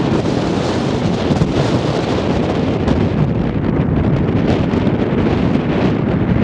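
Strong wind buffeting the microphone, a steady loud rumble.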